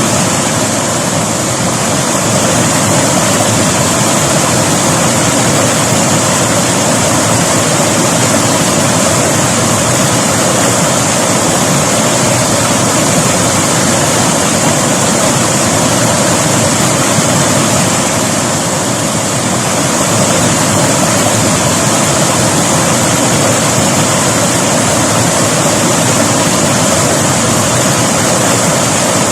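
River water rushing and splashing over rocks, a loud steady churning hiss.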